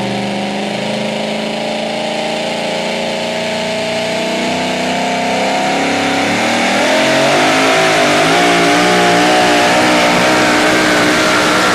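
Two-wheel-drive pulling truck's engine running steadily, then revving higher from about six seconds in, its pitch climbing and wavering up and down.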